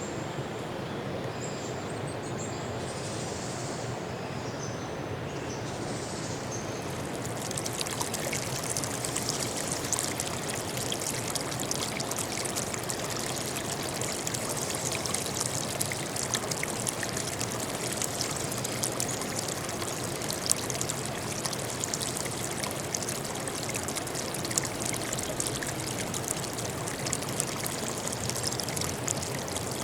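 Running water splashing and trickling, as from a stream or small waterfall, steady throughout and brighter and more splashy from about a quarter of the way in. Faint high bird notes sound over the water in the first few seconds.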